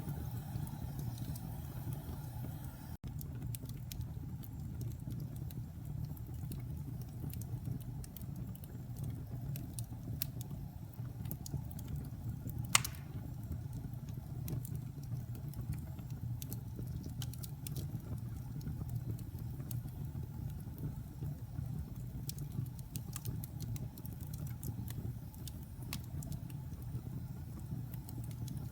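Fire burning in a fireplace: a steady low rumble with scattered small crackles and one sharp pop near the middle.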